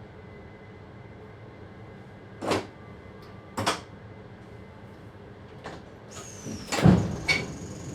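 Sharp knocks and clunks in a train driver's cab: two single knocks, then a louder cluster near the end, joined by a thin high whine.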